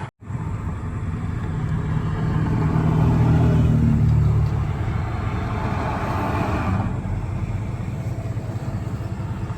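A road vehicle driving, with steady engine and road rumble. The engine hum swells for a couple of seconds in the middle, then eases back. There is a brief silent gap right at the start.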